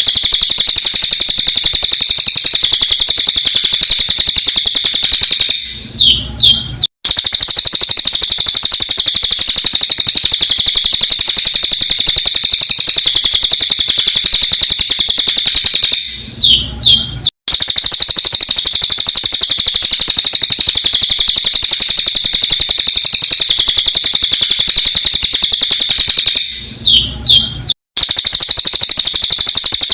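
Sped-up cililin bird song: a loud, dense, rapid stream of high-pitched chirping, broken about every ten seconds by a short pause with a few separate chirps and a sudden cut where the recording loops.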